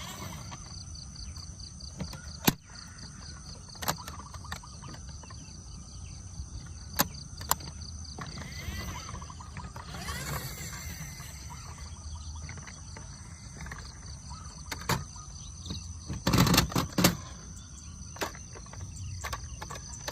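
Scattered sharp clicks and knocks, with a louder clatter about sixteen seconds in, over a steady high insect drone and a low rumble.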